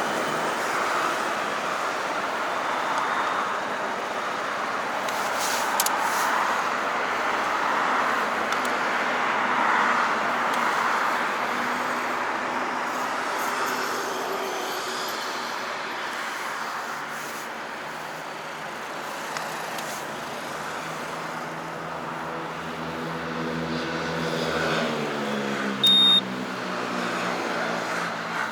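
Motorcycle on the move: steady wind and road noise with its engine underneath, the engine pitch rising near the end as it speeds up. A single short, high-pitched beep cuts in about two seconds before the end.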